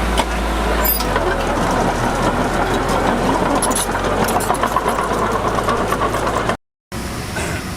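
Diesel engine of heavy earthmoving machinery running steadily. Its low note shifts about a second in, and the sound drops out for a moment near the end.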